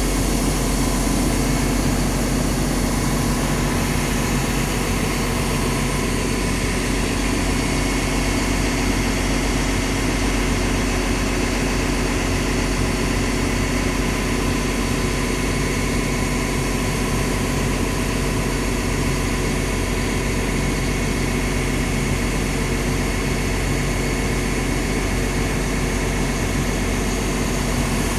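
Liugong CLG922E crawler excavator's Cummins diesel engine running at a steady speed, with an even, unchanging hum and no revving.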